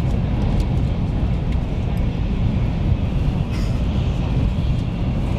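Steady low rumble of a Taiwan High Speed Rail train in motion, with a few faint clicks and a brief hiss about three and a half seconds in.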